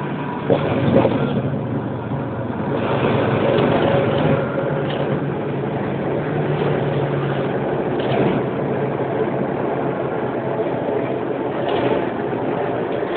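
Airliner cabin noise during landing: the aircraft's engines and airflow as a steady hum. There are a couple of sharp knocks about half a second in, and the noise swells for a couple of seconds soon after.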